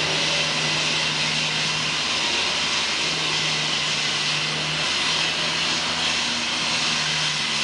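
Heavy construction machinery running at a work site: a steady, loud rushing noise over a low hum that breaks off and returns a few times.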